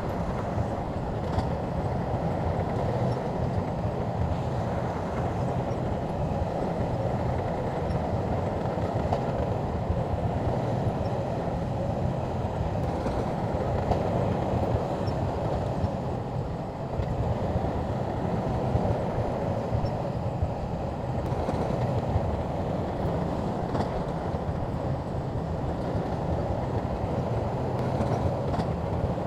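Shantui crawler bulldozer working: its diesel engine and steel tracks running steadily under load, with a continuous low drone.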